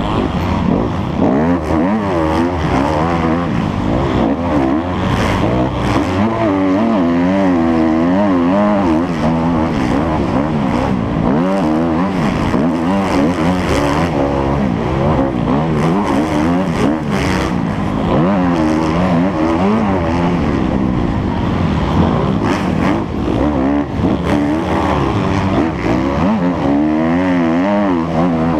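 Motocross motorcycle engine revving hard and steadily loud, its pitch rising and falling again and again as the throttle opens and closes.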